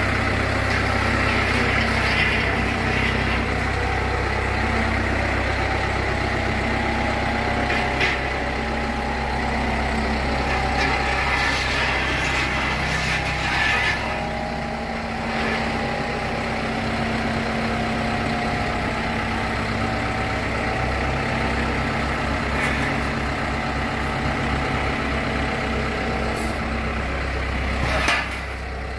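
An engine running steadily at idle, with a few short clicks and knocks.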